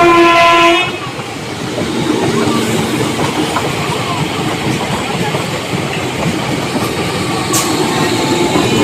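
Indian Railway local train sounding its horn in one short blast of under a second, then the train running with a steady noise of wheels on the track.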